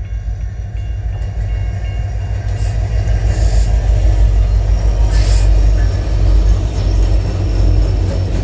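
A train pulled by a single locomotive, running with a loud, steady low rumble that grows a little louder. A few brief hisses come about a third of the way in and just past the middle.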